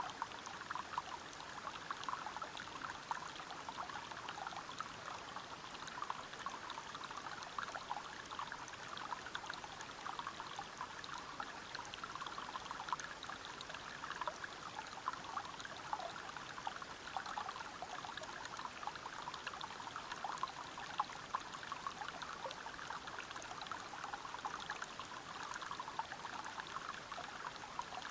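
River water running over rocks: a steady, even babble of flowing water dense with many small splashes.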